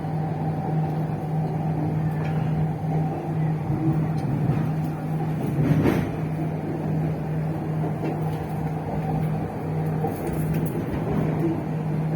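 MRT metro train running, heard from inside the carriage: a steady low hum with a higher whine over the rolling noise, and a brief louder clatter about six seconds in.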